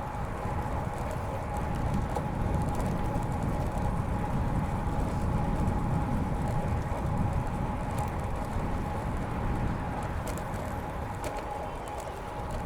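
Road bike rolling along a paved path: steady tyre and riding rumble, with a thin steady whine and a few light clicks in the second half.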